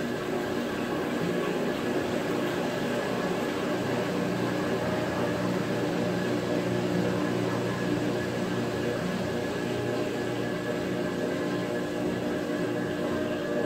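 Maytag top-load agitator washing machine running with a steady motor hum.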